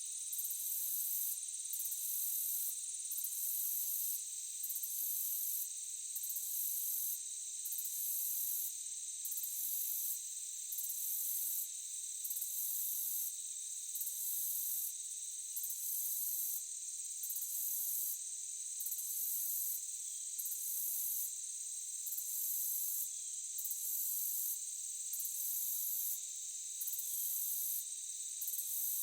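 Forest insect chorus of crickets-like trilling: a steady high shrill trill, with a second, higher chirping that switches on and off about once a second.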